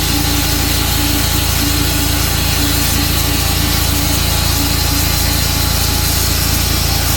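Tru-Cut sawmill running steadily while sawing through a Tree of Heaven log, a hard wood, with a steady low engine hum beneath the cutting noise.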